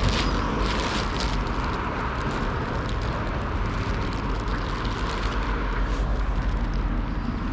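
Steady outdoor rumble and hiss with no distinct event standing out.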